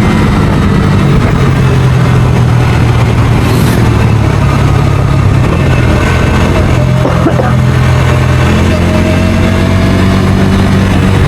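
Bajaj Dominar 250's single-cylinder engine running while riding, its note changing with throttle. The pitch climbs about a second in, drops about halfway through and rises again near the end.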